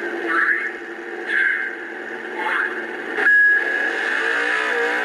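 Electronic sound effects from a Hess toy truck's small built-in speaker, tinny and loud. A short steady beep comes a little over three seconds in, then a recorded engine revving, rising and falling in pitch, near the end.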